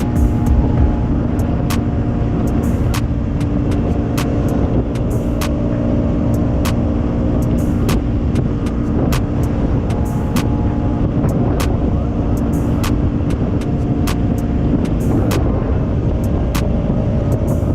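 Bajaj Pulsar NS200's single-cylinder engine running at a steady cruise on the road, under a rushing haze of wind and road noise. Many sharp ticks are scattered irregularly through it.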